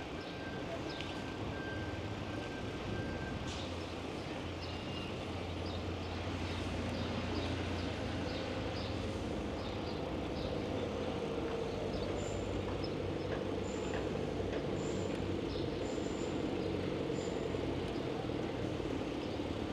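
Motor vehicle engine running nearby over road noise, growing a little louder about halfway through. From about two-thirds of the way in there are short high chirps about once a second.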